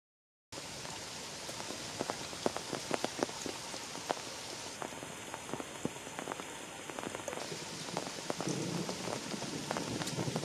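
Heavy rain falling on forest foliage, with many separate drops striking leaves close by. It begins abruptly about half a second in, and a low rumble builds near the end.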